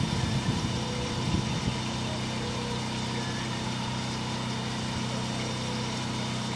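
An engine or motor running steadily with a low, even hum, with some uneven rumbling during the first second and a half.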